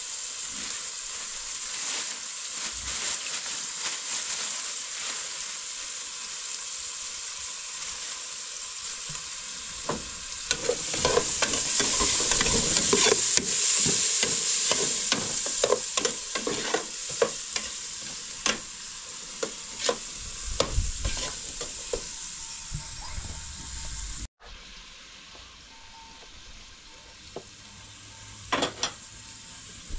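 Food frying and sizzling in a metal pot on a gas stove while a metal ladle stirs it, scraping and clinking against the pot. The stirring is busiest and loudest from about ten seconds in. After an abrupt break near the end, only a quieter hiss and a few clinks remain.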